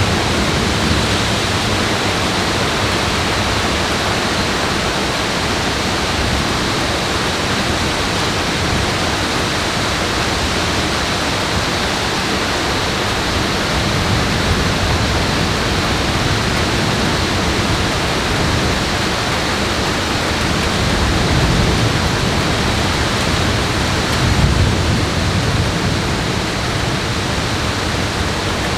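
Steady, loud rush of falling water from the storm, an even hiss with no rhythm, with a brief low swell near the end.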